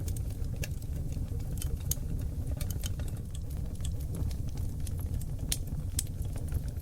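Oak log fire in a wood-burning fireplace crackling: frequent irregular sharp pops and snaps over a steady low rumble of the flames.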